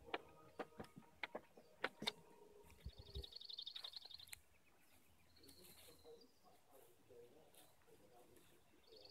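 A small songbird's rapid high trill, about a second and a half long, followed a couple of seconds later by a shorter high call. A few sharp clicks come in the first two seconds.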